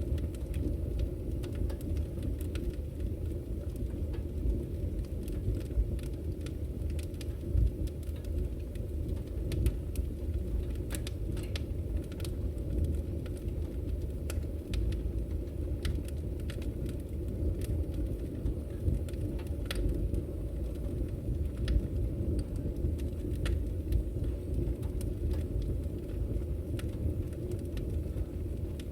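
Wood fire burning in a fireplace: a steady low rumble of the flames with frequent sharp crackles and pops from the firewood.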